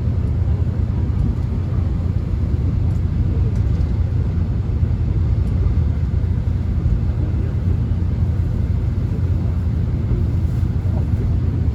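Steady low rumble of a Korean subway train running, heard from inside the carriage, with a few faint ticks over it.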